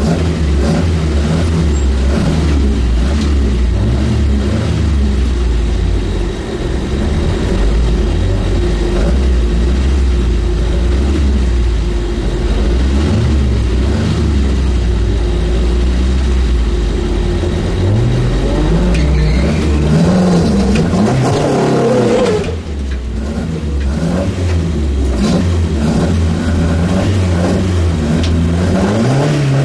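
An Opel competition car's engine heard from inside the cabin, idling with a steady low note and revved up and down a few times about two-thirds of the way in, then briefly dropping back.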